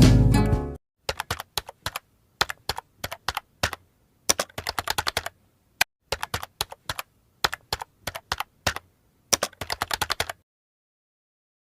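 Music stops under a second in. It is followed by irregular runs of quick keyboard- or typewriter-style key clicks, with dead silence between the strokes, as in a typing sound effect. The clicks stop a second or so before the end.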